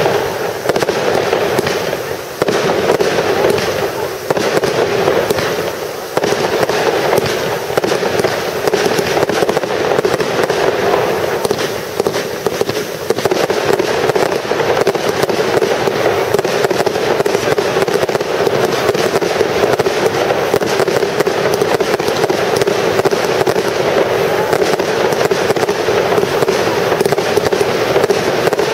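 Fireworks display in full barrage: a dense, unbroken run of bangs and crackling from bursting shells and rising comets, with short lulls in the first half and a solid, unbroken volley after about halfway.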